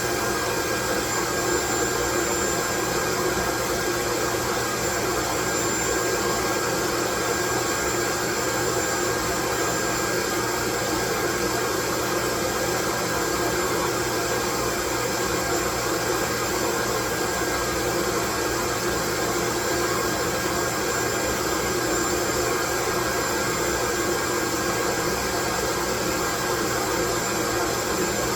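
Loud, steady white noise: an even, unbroken hiss across the whole range, with a few faint steady tones running through it.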